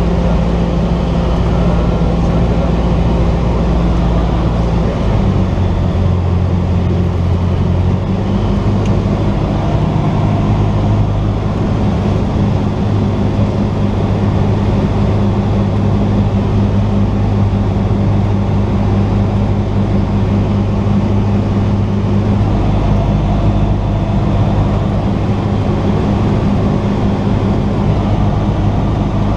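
Cessna 172's piston engine and propeller droning steadily, heard from inside the cabin. The pitch rises slightly about five to eight seconds in, then holds.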